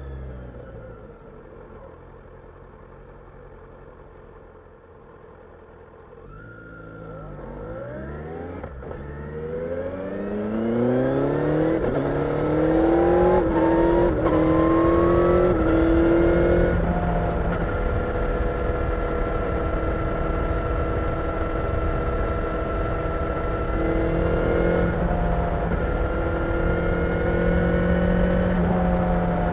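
Kawasaki Ninja 1000SX's inline-four engine heard from on board. It runs quietly at low revs for the first few seconds. About six seconds in it accelerates hard, rising in pitch through several quick upshifts, then settles to a steady cruise with a rush of wind.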